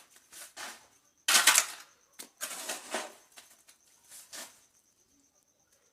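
A few short, rough scraping noises, the loudest about a second and a half in, then a cluster a second later and a last one near the end.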